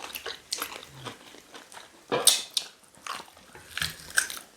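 People chewing and sucking on cow tail meat from pepper soup, with short wet mouth clicks and smacks and one louder, sharper one about two seconds in.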